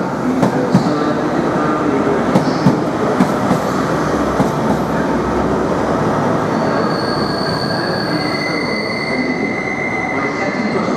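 First Great Western InterCity 125 high-speed train running past and away along the platform. Its wheels click over rail joints in the first few seconds as the coaches and then the rear Class 43 power car go by. From about seven seconds in, a steady high-pitched wheel squeal rises over the rumble.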